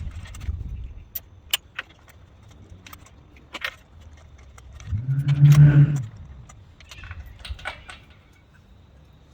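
Metal tools clinking and rattling in sharp, scattered clicks while work goes on on an engine, with a loud, steady mechanical whirr lasting about a second about five seconds in.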